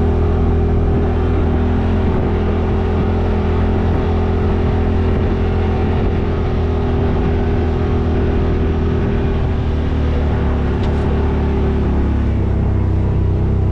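Yamaha RMAX side-by-side engine running steadily under way, its note shifting slightly near the end.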